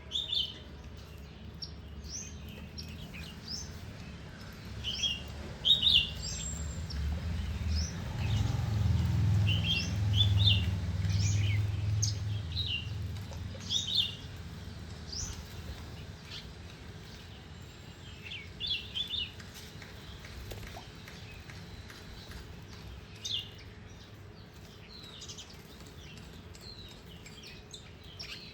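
Small garden birds chirping: many short, high chirps, busy for the first twenty seconds and then sparser. Under them a low rumble swells up, is loudest about ten seconds in, and fades out a few seconds later.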